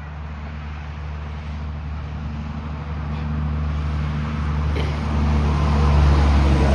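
A semi truck's diesel engine running with a low, steady note, growing louder toward the end as the truck draws near.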